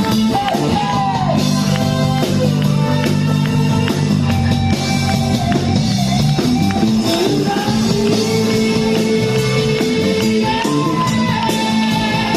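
Live rock band playing: electric guitars, bass and drums under a singing voice.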